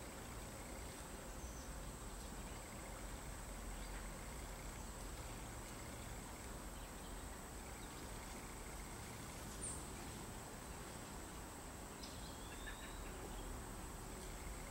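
A steady, high-pitched insect drone, like a cricket chorus, with a short chirp from a small bird near the end.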